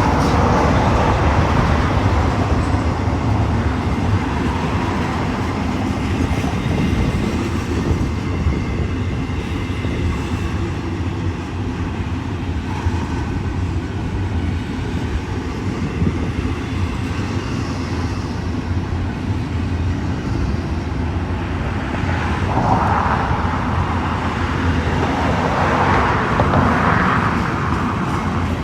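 Union Pacific intermodal freight train rolling past with a steady low rumble of cars on the rails, swelling a little a few times near the end.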